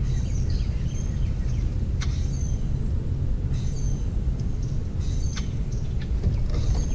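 Small birds chirping in short high calls every second or so over a loud, steady low rumble, with one sharp click about two seconds in.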